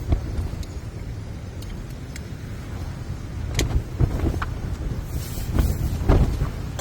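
Strong gusting wind buffeting a tunnel tent, a steady low rumble that swells into a stronger gust about halfway through. A few sharp clicks and knocks sound along with it.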